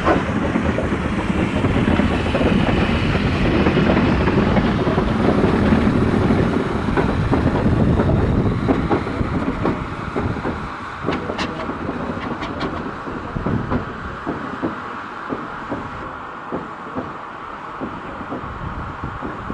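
A train running close by, its wheels clattering over the rail joints. It is loudest in the first half, then fades to separate clicks from the wheels.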